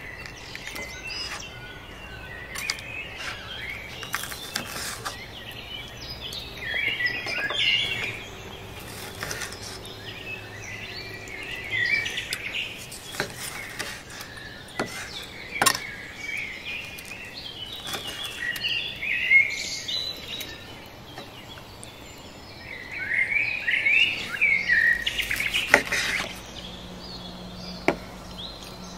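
Birds chirping and singing in short repeated phrases. Scattered sharp clicks and scrapes come from a knife and fork cutting meat on a wooden plate.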